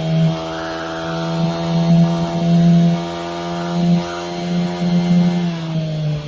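Small dirt bike's motor running at a steady pitch, swelling and easing in loudness, then sliding down in pitch near the end as it slows.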